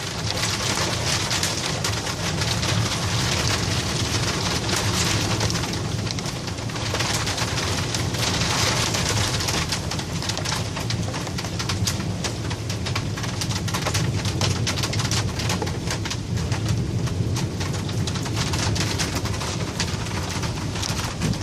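Storm rain and hail pelting down hard, a dense, steady clatter of impacts.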